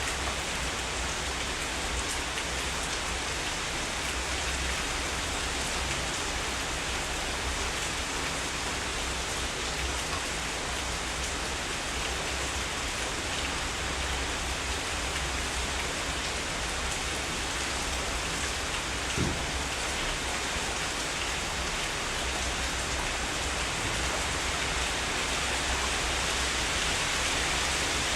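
Heavy rain falling steadily, an even dense hiss of drops on surfaces, with one brief low thump about two-thirds of the way through.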